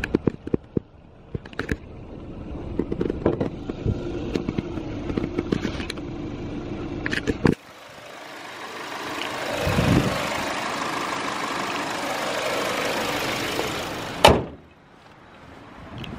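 Kia Optima sedan's engine running, heard close up as a steady rushing hiss under the open bonnet. About two seconds before the end, one sharp bang as the bonnet is shut.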